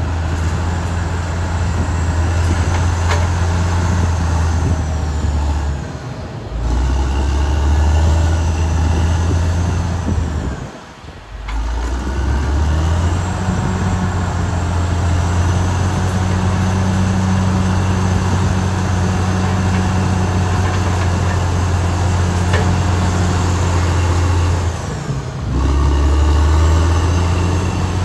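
Caterpillar D6R XL bulldozer's diesel engine running steadily under load, with faint high squeals above it. The sound dips briefly three times.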